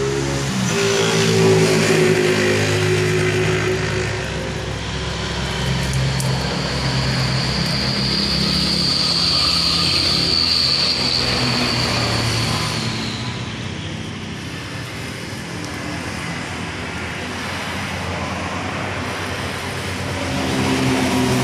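A motor vehicle's engine running, its pitch shifting up and down, with a high steady whine for several seconds in the middle.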